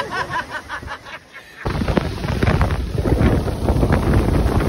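Wind buffeting the microphone: a loud rumble with crackle that starts abruptly about one and a half seconds in. Before it comes a quick run of short, repeated high notes.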